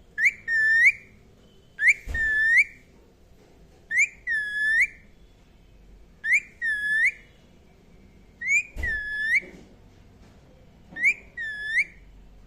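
Indian ringneck parakeet giving a repeated whistled call, six times about two seconds apart: each call a short sharp rising note followed by a longer note that dips and rises again.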